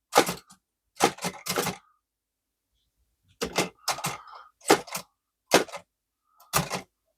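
Antique Chicago typewriter typing on a test sheet: its type sleeve is struck against the paper by a newly fitted star hammer. It gives about nine sharp clacks, a quick cluster in the first two seconds, then single strokes roughly a second apart.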